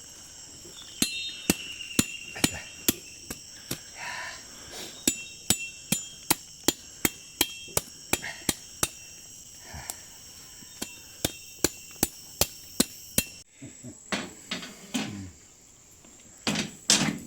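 Sharp knocks repeated about two to three times a second, like something being struck or pounded by hand, over a steady high buzzing of rainforest insects. The knocking and insect buzzing stop together about thirteen seconds in.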